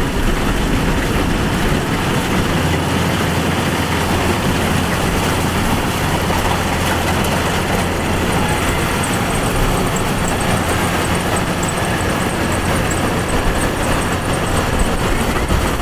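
Kubota DC-105X combine harvester running steadily under load, its diesel engine humming low beneath a continuous rush of threshing and machinery noise.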